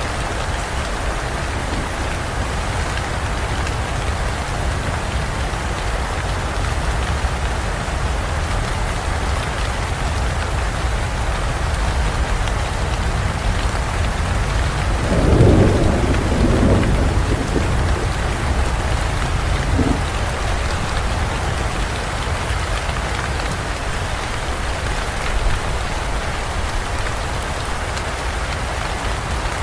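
Steady heavy rain falling on forest foliage, with a low thunder rumble that swells about halfway through and fades over a couple of seconds.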